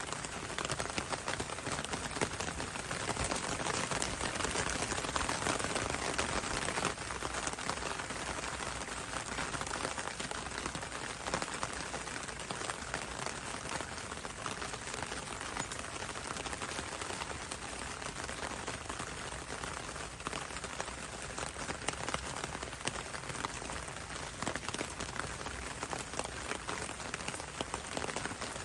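Steady rain falling on leaves: many separate drops over an even hiss.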